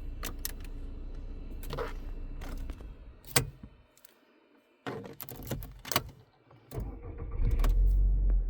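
Sharp clicks and a rattle of keys inside a car over a low steady hum, with the sound dropping out briefly about halfway through; a louder low rumble builds near the end.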